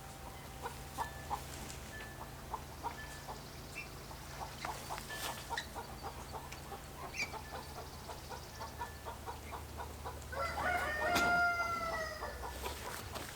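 A rooster crows once, about ten seconds in; the call lasts about two seconds and drops in pitch at the end. Scattered faint ticks and short chirps come before it.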